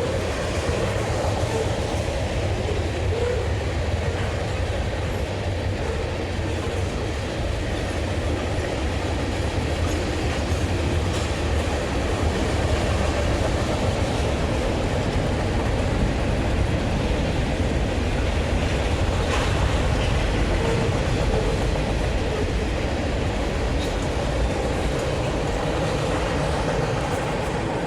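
BNSF freight train cars rolling past at close range: a steady rumble and rattle of steel wheels on the rails.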